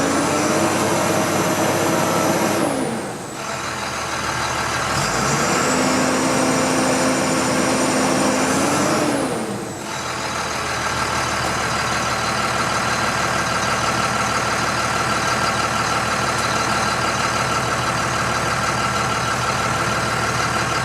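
International DT466 diesel engine in a 2007 International 4300 box truck, revved and held at raised speed twice, each time dropping back, then idling steadily from about ten seconds in.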